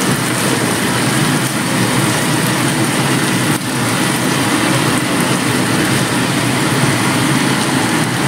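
Shredded chicken and its oily sauce sizzling steadily in a nonstick frying pan as the liquid cooks down, stirred with a silicone spatula.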